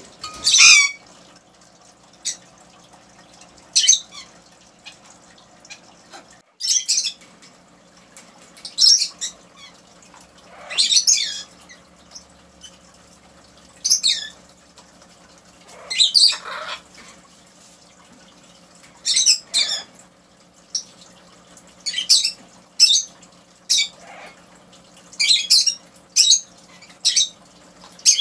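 Pet bird squawking: short, high-pitched calls repeated every one to three seconds, sometimes in quick pairs or threes, especially near the end.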